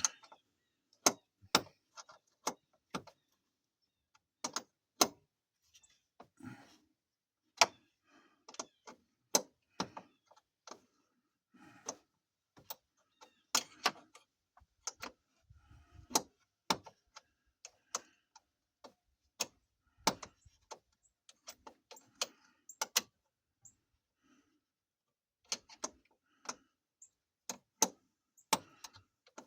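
Sharp metallic clicks and clinks of hand tools, scattered irregularly and sometimes in quick pairs or clusters, as bolts on a truck engine's thermostat housing are worked loose.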